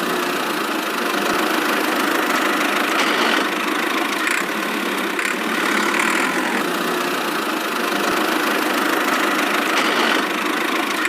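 Small motor of a miniature DIY machine running steadily, with no change in speed.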